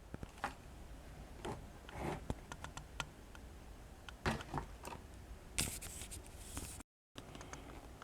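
Small clicks and short scrapes of a toy disc harrow being handled and turned in the hands, with the sound cutting out for a moment about seven seconds in.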